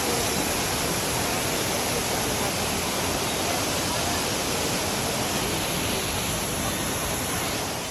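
Waterfall rushing: a loud, steady roar of falling water that drops away suddenly near the end.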